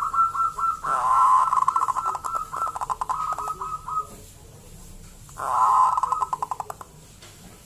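Local zebra dove (perkutut) cooing in two bouts of rapid, rolling pulsed notes. The first lasts about four seconds; the shorter second bout comes about five and a half seconds in.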